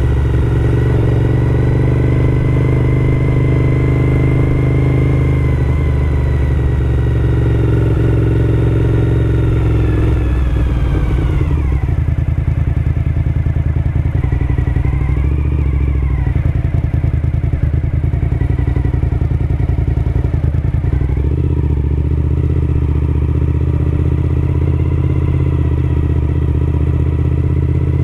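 Suzuki SV1000S's 90-degree V-twin engine running under way at a steady pitch. After about ten seconds the pitch falls as the bike slows, then it holds a lower steady note with a couple of brief rises.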